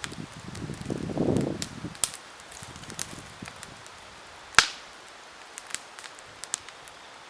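Wood campfire crackling, with scattered small pops and one sharp, loud pop about halfway through. A low rushing sound fills the first two seconds, then fades.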